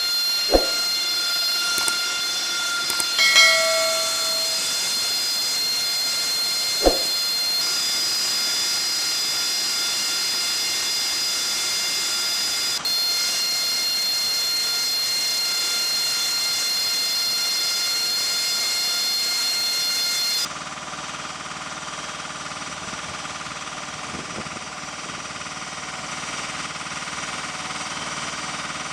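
AV-8B Harrier II jet engine running with a steady high-pitched whine over a hiss. A few sharp clicks come in the first seven seconds. About two-thirds of the way through, the sound abruptly drops and turns duller.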